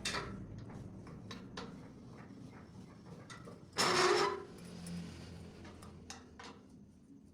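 Scattered light clicks and knocks, with one louder, rough scraping burst lasting about half a second around four seconds in.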